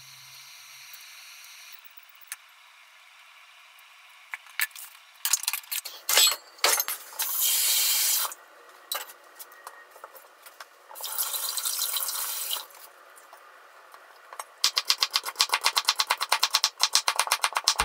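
Kitchen knife tapping and cutting daikon radish on a wooden cutting board, twice broken by a tap running for a second or two as pots are filled with water. Near the end the knife goes into fast, even chopping on the board, about six strokes a second, as the daikon peel is julienned.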